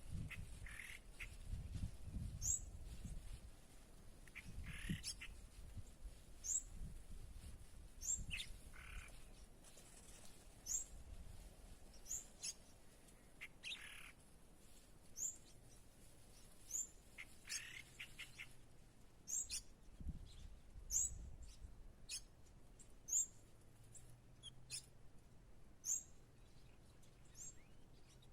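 Small birds chirping: short, high, downward-sweeping chirps repeated about once a second, with lower, softer calls mixed in during the first half.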